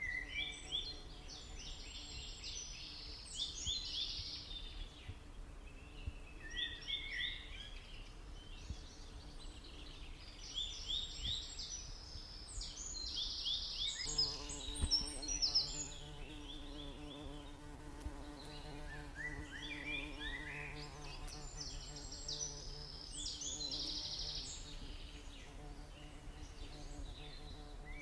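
Bird song: a series of quick, falling notes in bursts that come back about every ten seconds. Under it runs a low, steady buzz of stingless bees, which grows stronger about halfway through.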